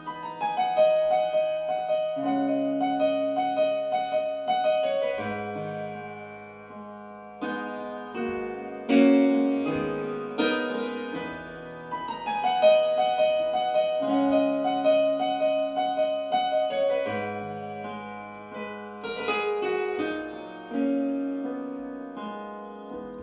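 Piano playing a slow, gentle intro: repeated notes over sustained chords, with a new chord every few seconds.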